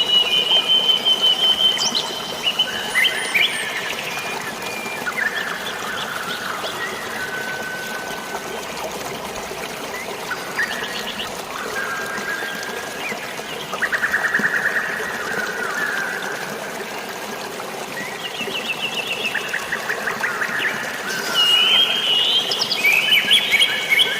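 Several birds chirping, whistling and trilling over a steady wash of running water. The calls are busiest at the start and again in the last few seconds.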